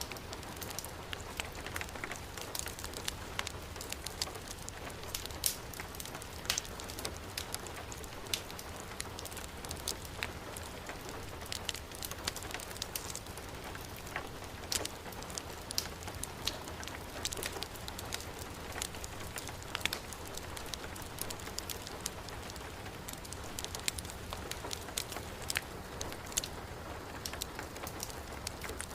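Heavy rain falling in a steady hiss, mixed with the scattered sharp pops and crackles of a burning wood fire.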